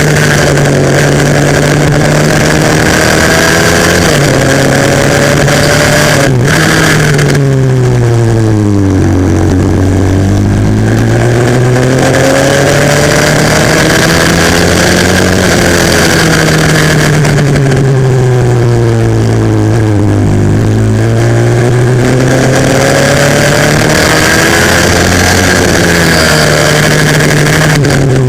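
Four-stroke 140cc pit bike engine racing, heard onboard: its pitch climbs and falls several times as it accelerates out of and slows into corners, with a sudden drop and a short click about six seconds in.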